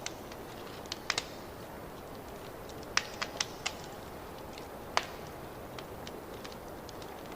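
Fireplace fire crackling: scattered sharp pops and snaps over a steady hiss, the loudest pops about three and five seconds in.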